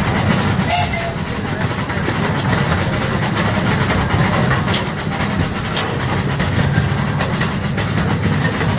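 Fairground ride train running along its track: a steady low rumble with scattered clicks from the rails.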